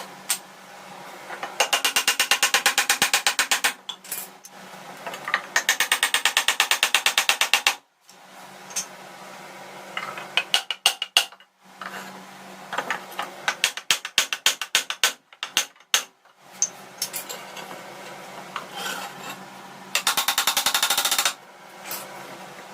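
Three runs of fast, even ratcheting clicks, about ten a second, each lasting around two seconds, with scattered metallic knocks and taps between them.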